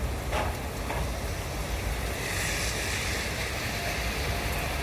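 Heavy rain pouring steadily, a dense hiss over a low rumble, with the hiss swelling about two seconds in.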